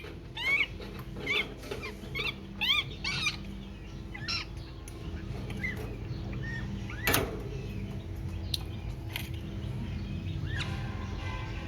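Baby birds cheeping: a quick run of short, high chirps in the first three seconds or so, then scattered calls, with one sharp click about seven seconds in, over a steady low hum.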